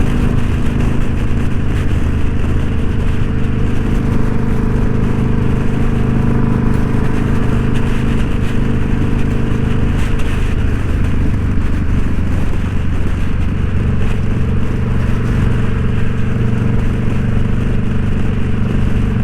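Indian Scout Bobber's liquid-cooled V-twin engine running at a steady highway cruise, with steady wind and road noise over the mic. The engine pitch holds level throughout, with no revving or gear changes.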